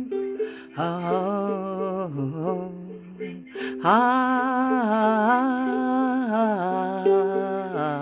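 Music: a voice humming a slow, wavering tune in long held notes over plucked ukulele notes, breaking off briefly about a second in and again near the middle.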